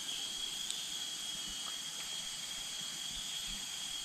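Insects droning steadily: a constant high-pitched hiss with one held high tone, with a few faint low thumps.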